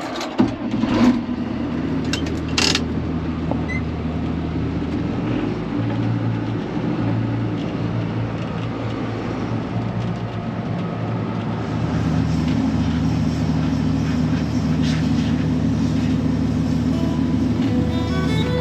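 An engine running steadily, its note shifting a couple of times, with a few sharp metallic knocks in the first few seconds.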